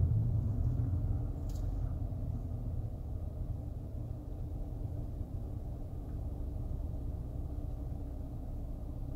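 Low, steady road and engine rumble heard inside a moving car's cabin, easing off somewhat over the first few seconds.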